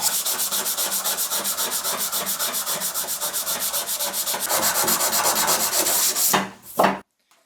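Sandpaper rubbed by hand back and forth over the bread cutter's metal blade, in quick even strokes about six a second, smoothing the grinding marks into a uniform finish. The sanding stops near the end, followed by one short rub and then silence.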